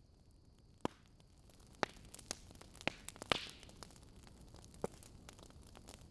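Wood fire in a fireplace crackling: sharp, irregular pops over a low hiss, the loudest about three and a half seconds in.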